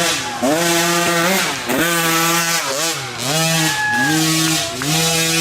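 Off-road racing engine revving hard on a motocross track. Its pitch climbs, holds, then dips again about once a second as the throttle is rolled off and back on.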